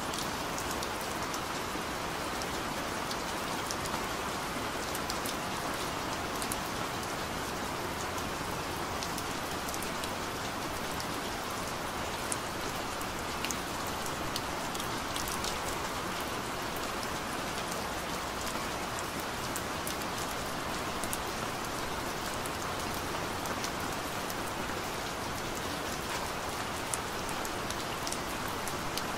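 Steady rain: a constant hiss of rainfall with many small, scattered drop ticks.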